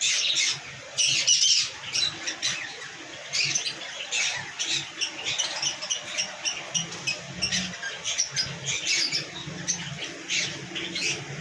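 Lories squawking: many short, shrill calls, repeated over and over.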